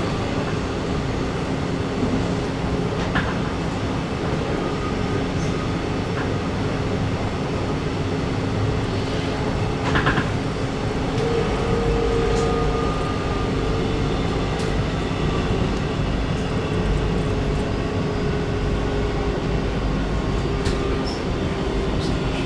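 Interior noise of an Alstom X'Trapolis 100 electric multiple unit running at speed: a steady rumble of wheels on rail with a constant hum, and a brief clatter about ten seconds in.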